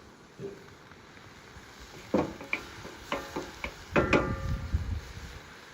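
Kitchenware being handled: a series of sharp knocks and clinks, several with a short ringing after them, starting about two seconds in.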